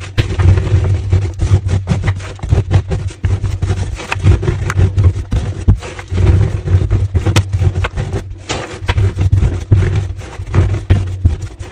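Homemade gym chalk slabs being crushed by hand close up: dense crunching and crackling with squeaky rubbing, over a heavy low rumble of pressing.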